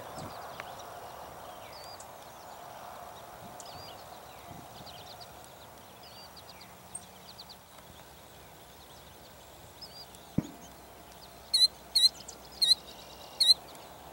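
Small songbirds singing and calling with short repeated high notes over a faint steady drone. A single thump comes about ten seconds in, and near the end a bird gives four loud, sharp calls in quick succession.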